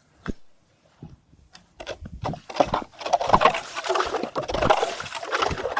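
Irregular clattering and scraping of ice and slush at a freshly drilled ice-fishing hole. It begins with a few sharp clicks and grows busier about two seconds in.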